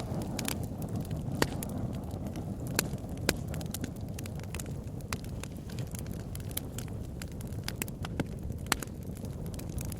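Wood bonfire burning: a steady low rush of flame with irregular sharp crackles and pops from the burning wood, a few louder snaps among them.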